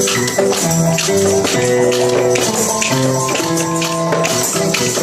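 Children's rhythm band playing together: tambourines jingling and shakers rattling along with a steady melody.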